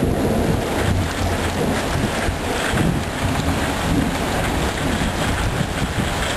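Thunderstorm wind buffeting the microphone in uneven gusts, with rain falling underneath.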